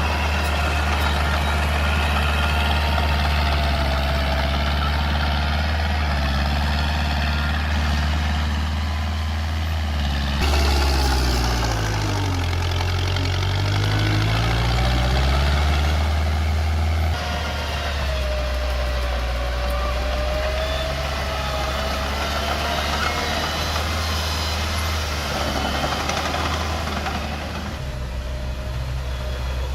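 Komatsu mini bulldozer's diesel engine running under load, with a high, wavering squeal over it. Midway the engine note sags and then climbs back as it works.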